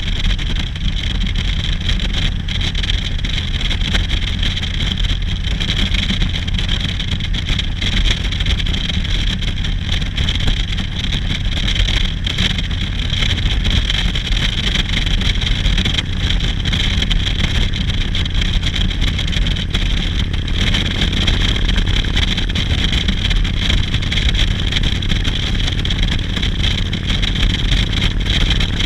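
Motorcycle running at a steady cruising speed, a constant engine rumble mixed with road and wind noise.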